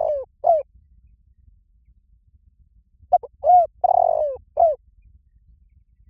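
Spotted dove cooing: the last coo of one phrase just after the start, then a full phrase of about five coos beginning about three seconds in, with a longer, falling coo in the middle.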